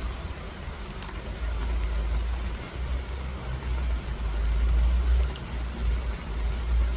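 Rain falling steadily with a hiss and faint scattered drips, under a heavy low rumble that swells about a second and a half in and rises and falls through the rest.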